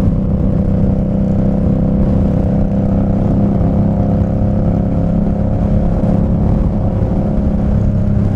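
Indian Scout Bobber's V-twin engine running steadily at cruising speed, with wind buffeting the microphone.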